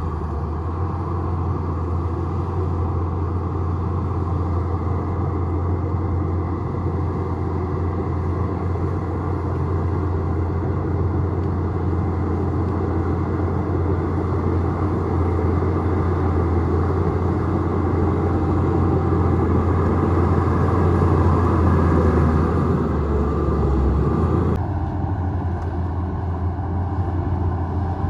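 Bulldozer's diesel engine running steadily with a deep hum, growing somewhat louder past the middle, then changing abruptly to a thinner, quieter sound near the end.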